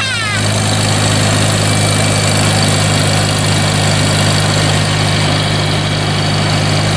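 1952 Farmall Cub's four-cylinder flathead engine idling steadily just after a cold start, choke off, warming up.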